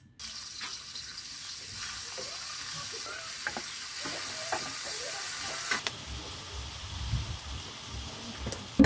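Chopped onions, then tomatoes, sizzling in hot coconut oil in a wok: a steady frying hiss dotted with small crackles and clicks.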